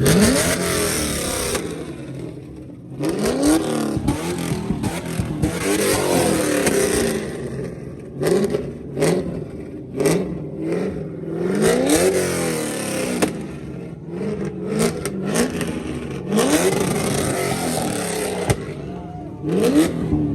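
A car engine revved hard again and again, its pitch shooting up and falling back about every two seconds. Sharp cracks and pops come between the revs, typical of exhaust backfire at a meet where cars shoot flames, along with stretches of loud hissing rush.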